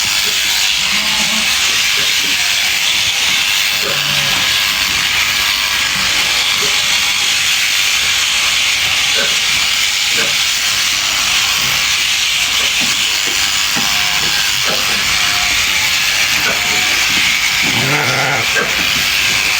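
Electric sheep shears running continuously: a steady, dense high hiss from the clipping, with a few faint short calls underneath.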